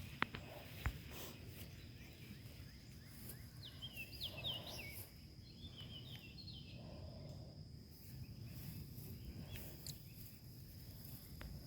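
Outdoor garden ambience: birds chirping in two short runs of quick, falling notes a few seconds in, over a steady high-pitched hum and a low rumble. A couple of sharp clicks come in the first second.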